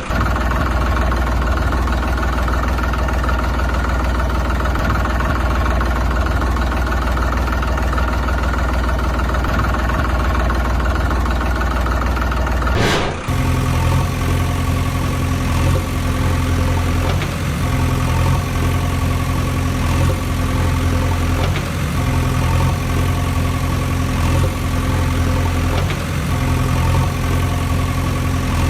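Vehicle engine running steadily; about 13 seconds in it cuts abruptly to a different engine idling with a lower, uneven throb.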